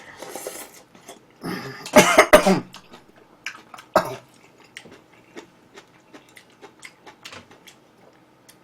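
A person coughing hard a few times, loudest about two seconds in with another cough about four seconds in, then soft clicking mouth and eating noises of chewing food.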